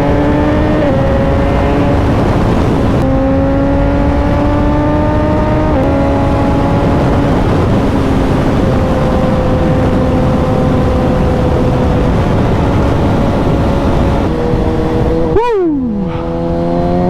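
Suzuki motorcycle engine pulling hard under wind noise, its pitch climbing slowly and dropping at upshifts about a second in and about six seconds in, then holding steady. Near the end the revs flick up briefly and fall sharply as the throttle closes, and the engine runs on at a lower pitch.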